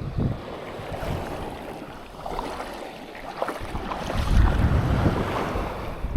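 Surf breaking on a sandy beach, with wind buffeting the microphone in low rumbling gusts that grow stronger about two-thirds of the way in.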